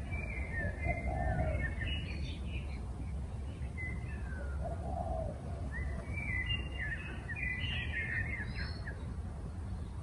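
Birds chirping in two bursts of quick, twittering calls, one in the first few seconds and another from about six seconds in. A short low hooting call comes twice, over a steady low rumble of background noise.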